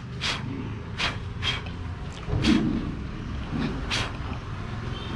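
Irregular sharp clicks and light knocks from hand tools and the speedometer console being handled, over a steady low hum.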